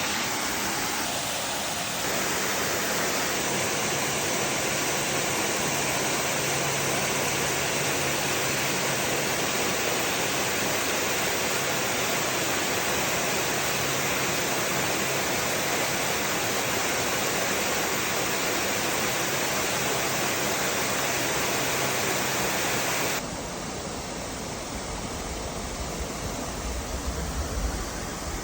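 Waterfall rushing as a steady, dense roar of falling water. About 23 seconds in it drops to a somewhat quieter rush, with a few low bumps near the end.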